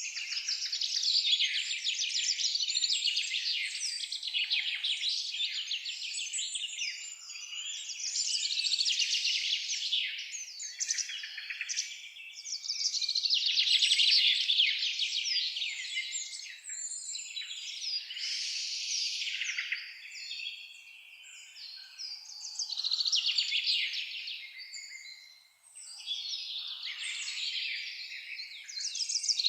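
Several songbirds singing over one another: rapid high chirps and trills in dense phrases of a few seconds each, with short lulls between them, the longest about two-thirds of the way through.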